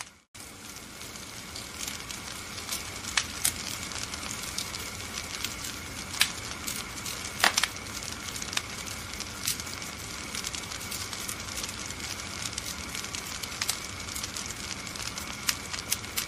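Wood fire crackling steadily, with many small snaps and a few louder pops, the strongest about three and seven and a half seconds in. The sound drops out for a split second just after it begins.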